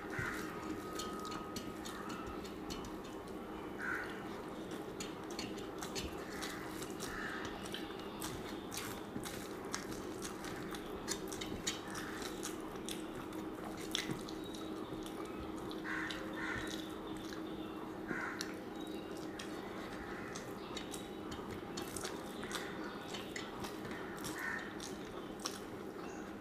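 Close-miked chewing and wet lip-smacking of a person eating rice and greens by hand, with many small sharp mouth clicks scattered throughout.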